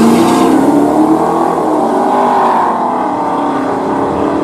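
Two Ford F-150 pickups, a modified SVT Lightning and a Harley-Davidson edition, racing side by side with their V8 engines at full throttle. The engines are held at high revs, and the sound eases off slightly in the second half.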